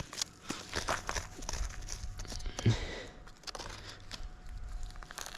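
Irregular crunching and crackling of twigs and dry branches as a person moves about and handles sticks on the forest floor.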